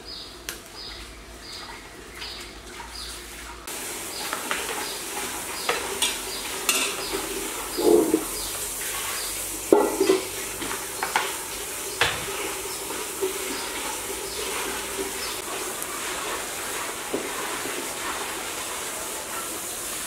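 Food sizzling as it fries in a large metal pot, with a metal ladle stirring, scraping and knocking against the pot. The sizzle comes in a few seconds in, and the loudest knocks fall in the middle.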